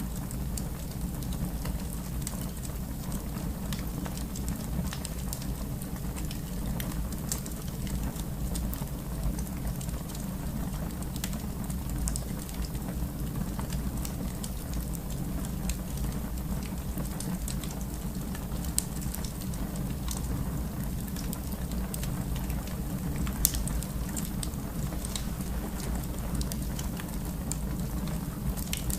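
Wood fire in a fireplace crackling: scattered sharp pops over a steady low rush. There are two louder pops, one about two-thirds of the way in and a stronger one later.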